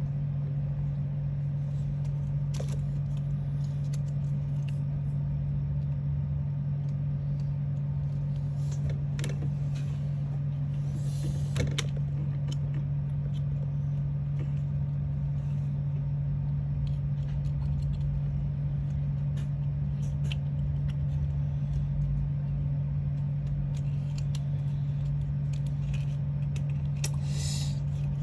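Steady low electrical-sounding hum, with faint scattered clicks and taps over it.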